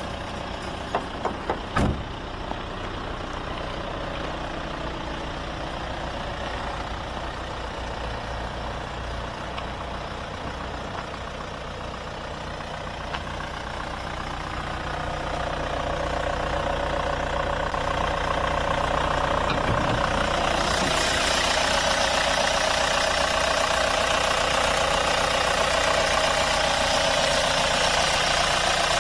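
Opel Omega 2.0 DTI four-cylinder turbo-diesel engine idling steadily, with a few clicks about two seconds in. The sound grows louder about halfway through and turns brighter and hissier from about two-thirds in.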